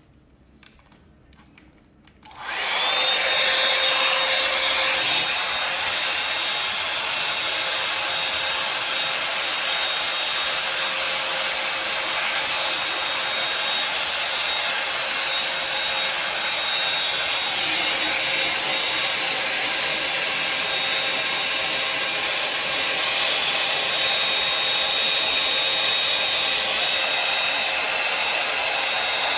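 Wavytalk Air Sculpt hot air brush switched on after a few clicks about two seconds in, then blowing steadily with a thin high whine over the rush of air.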